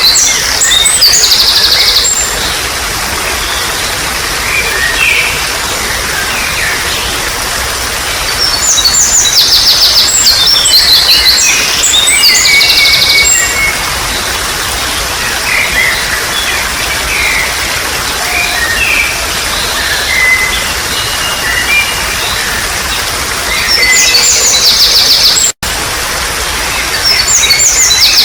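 Steady rush of trickling, flowing water under wild birdsong: a loud song of rapid, high repeated notes comes in bursts of a few seconds, about four times, between softer scattered chirps. The sound cuts out for an instant near the end.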